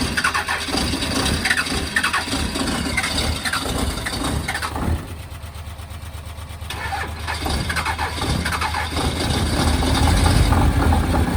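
Cold 12-valve Cummins inline-six diesel being cranked and started on a freezing morning, a steady low rumble that grows louder about nine seconds in.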